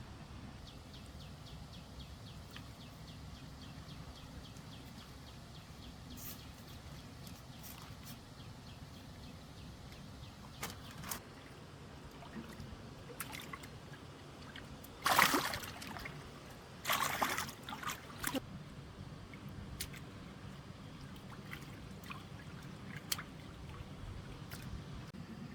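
Water trickling and sloshing against a low steady background, with a few louder splashes about halfway through.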